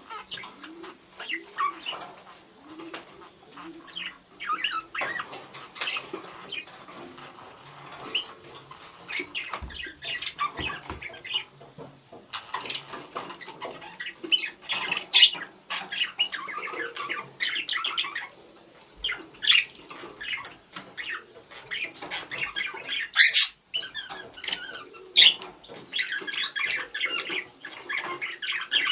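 Budgerigars chattering and calling to one another in a dense run of short chirps and warbles. The calls grow louder and sharper from about halfway through.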